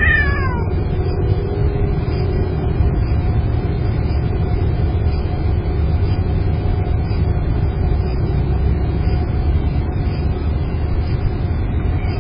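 Steady low rumble of a car engine idling close by, with a faint steady hum over it. At the very start, a short high call falls in pitch.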